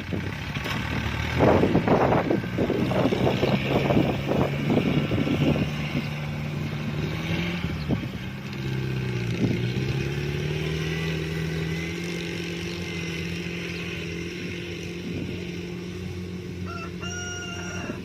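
Kubota DC-70 Plus combine harvester's diesel engine running steadily under harvesting load, with a rattling clatter in the first few seconds. The engine note dips about halfway through and comes back up. A rooster crows near the end.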